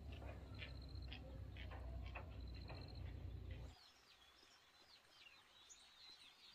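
Faint wild birds chirping, with short repeated trills, over a low steady rumble. A little over halfway the rumble cuts out and a bird's quick warbling song of rising and falling notes carries on.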